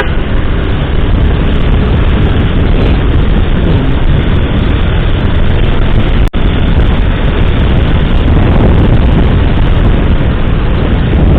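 Steady rush of wind on the mic and the motorcycle's engine running, recorded on the bike while riding in traffic. The sound cuts out for an instant about six seconds in.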